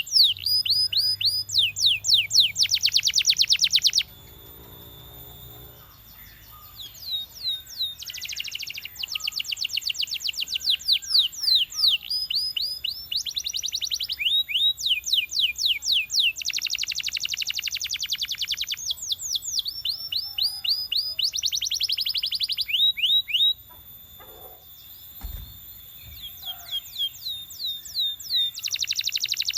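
Belgian canary singing in long phrases of rapid trills and quick runs of falling notes, with short pauses between phrases, one about four seconds in and another near the end.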